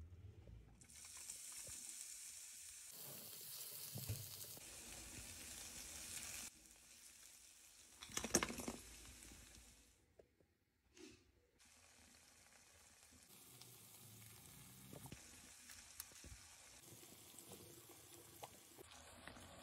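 Food sizzling in a nonstick pan: an orange tomato-based sauce frying in oil while a silicone spatula stirs it. The sizzle drops out and comes back several times, with a louder burst of sizzling and clatter about eight seconds in.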